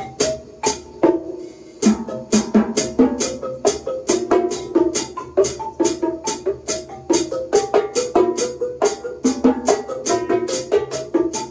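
Drum kit played in a quick, steady run of strikes, with a brief gap just under two seconds in.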